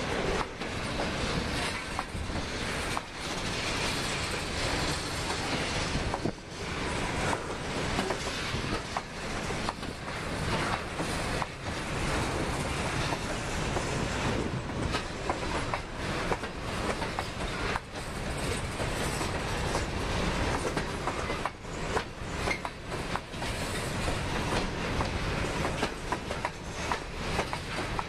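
Covered hopper cars of a freight train rolling past: steel wheels clattering over the rail joints in frequent irregular clicks and knocks over a steady rushing noise.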